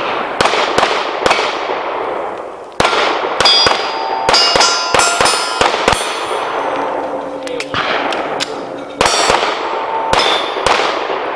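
A rapid string of pistol shots, a dozen or more sharp reports at uneven spacing, with steel plate targets ringing after hits.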